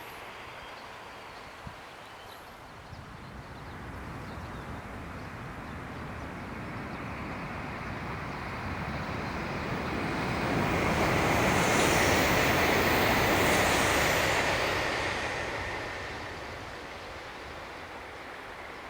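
A Shinkansen bullet train passing at speed. Its rushing noise builds over several seconds, is loudest for about four seconds near the middle, then dies away.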